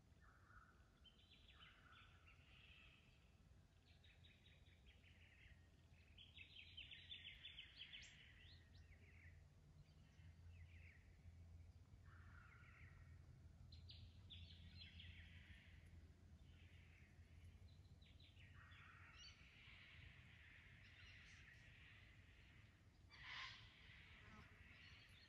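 Faint birdsong: birds calling in short repeated phrases throughout, with one louder call near the end, over a low steady rumble.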